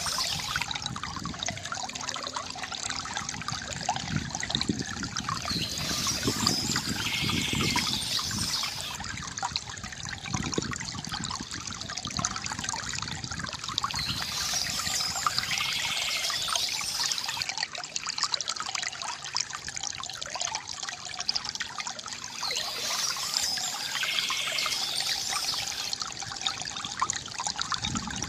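Water trickling and gurgling steadily from a bamboo fountain, with a brighter, hissier stretch coming back about every nine seconds.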